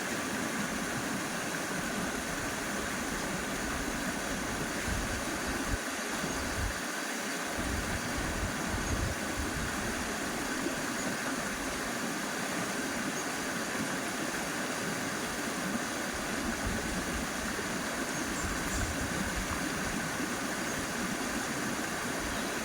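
Shallow, clear river flowing over rocks: a steady rushing of water with fine ripples, and an uneven low rumble underneath.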